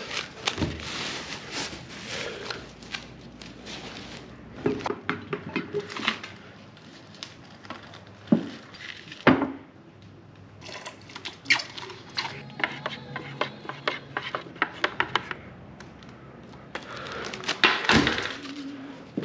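Work-handling noises: a string of clicks, knocks and crinkling scrapes, with a run of quick clicks in the middle and a few louder knocks scattered through.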